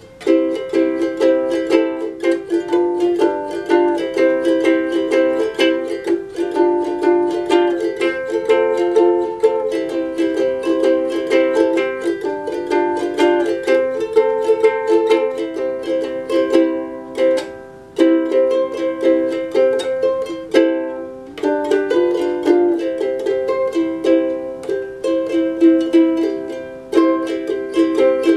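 Ukulele played in a steady run of strummed chords, with a brief pause about 21 seconds in.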